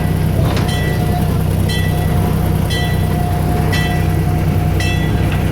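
Small tourist train running, with a steady low engine hum and a short, sharp ringing tick about once a second.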